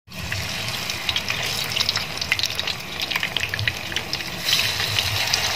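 Batter-coated tempe slices (tempe mendoan) frying in hot oil in a pan: a steady sizzle with frequent crackling pops, and a low rumble underneath.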